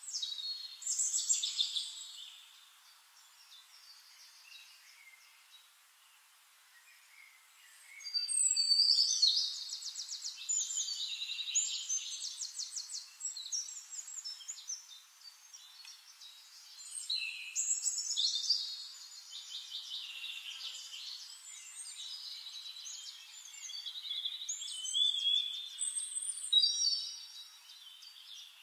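Songbirds singing: high chirps and rapid trills, several overlapping. A burst about a second in, a lull of several seconds, then dense singing resumes for the rest.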